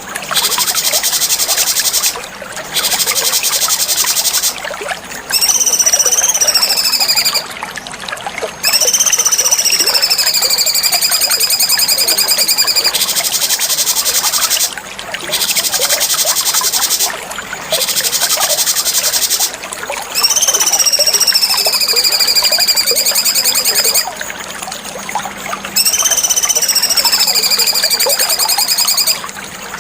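Cucak cungkok, a bulbul, singing loud whistled phrases. Each is a long clear note that slides downward with a slight waver, alternating every few seconds with stretches of fast, even high chattering, over a steady trickling, hissing background.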